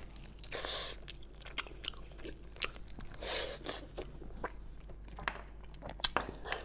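Close-miked chewing and biting of a braised pork knuckle stewed until tender: soft mouth sounds with scattered clicks and a few longer bursts.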